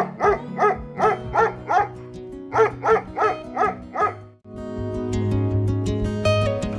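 A dog barking in two quick runs of short, high yelps, about six and then five barks, over background music; the barking stops about four seconds in and strummed guitar music carries on.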